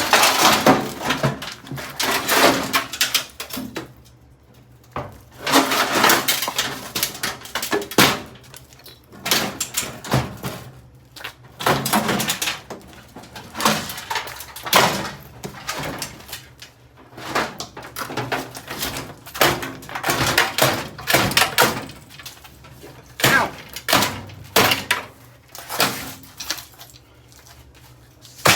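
Over-the-range microwave oven being knocked about and broken apart: irregular bangs and clattering of its parts, in bursts with short pauses between them.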